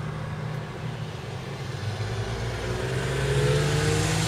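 A motor vehicle engine running steadily, with an engine note rising in pitch and growing a little louder over the last couple of seconds as a vehicle accelerates.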